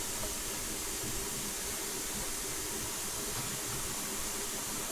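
Steady background hiss with no distinct events: room tone.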